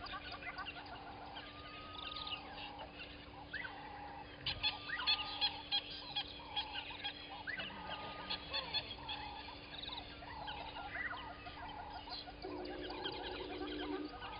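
Early-morning chorus of many wild birds calling at once: a call repeated about once a second, many quick high chirps and trills over it, and a lower, coarser call near the end.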